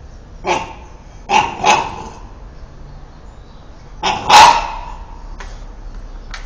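A dog barking at a vacuum cleaner in short bursts: one bark about half a second in, two quick barks around a second and a half, and a louder pair about four seconds in.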